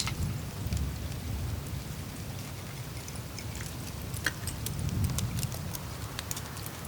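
Melting glacier surface on the Greenland ice sheet: scattered sharp ticks and clicks of dripping meltwater and crackling ice over a steady low rumble that swells twice.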